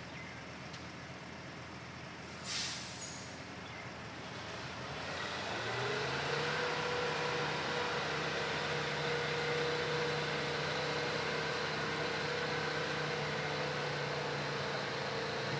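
A short, loud hiss of released air about two and a half seconds in. Then a heavy diesel engine revs up about halfway through and holds a steady, higher speed.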